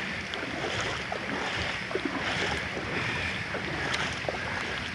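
Footsteps wading and splashing through shallow floodwater, with wind buffeting the microphone.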